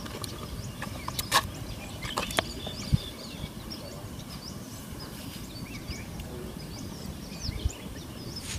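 Birds chirping and calling over a low steady background noise, with a few sharp knocks between about one and three seconds in.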